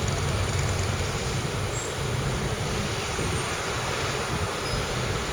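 Train running through the station: a steady low rumble with an even hiss above it.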